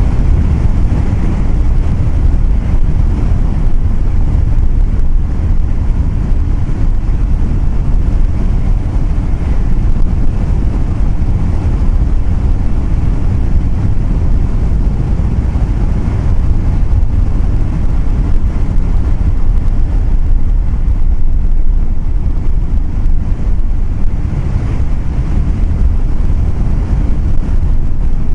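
Steady loud rumble of a vehicle on the move, with road noise and wind buffeting the microphone.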